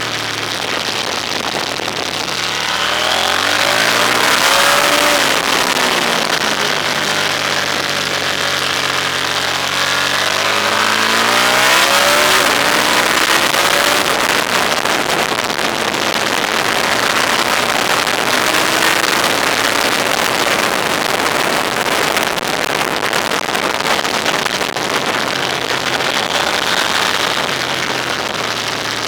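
Engine of a car on the move, its pitch climbing and dropping twice as it accelerates, over a loud, steady rush of wind and road noise. After about ten seconds the engine sinks under the wind and road noise.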